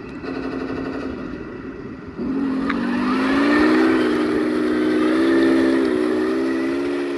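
Heng Long 1/16 Leopard 2A6 RC tank running, a steady pitched whine that steps up in pitch and gets louder about two seconds in as it drives harder, then eases slightly near the end.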